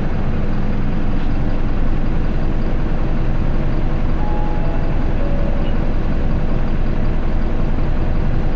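Inside an Isuzu QDG-LV290N1 city bus, its four-cylinder turbodiesel engine running steadily with an even, unchanging pitch.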